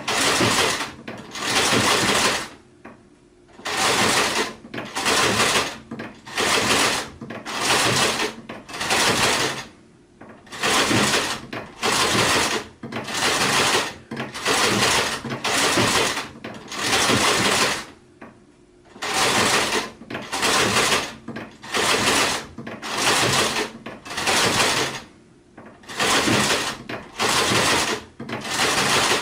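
Sewing machine stitching in short runs of about a second each, stopping briefly between runs, with a few longer pauses.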